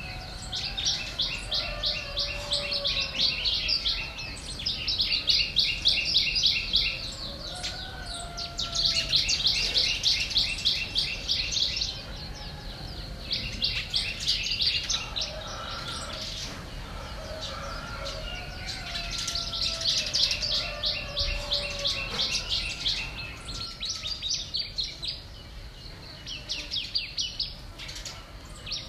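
Birds singing: fast, high, rattling trills of two to three seconds each, repeated every few seconds, with lower slurred whistles in between.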